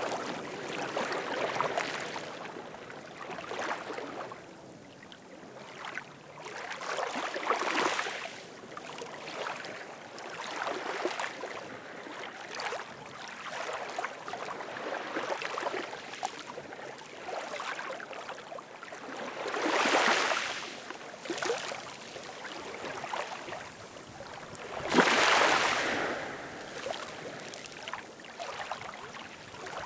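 Ocean waves washing ashore: a steady wash of surf that swells and falls back every few seconds, with two larger waves breaking about two-thirds of the way in and again near the end.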